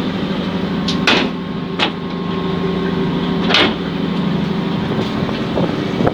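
Steady low drone of a passenger ferry's engines, broken by three sharp knocks.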